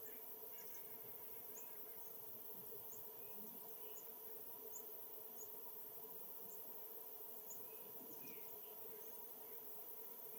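Faint, short, high-pitched bird chirps repeating about once a second, with a few lower calls, over a steady background hum.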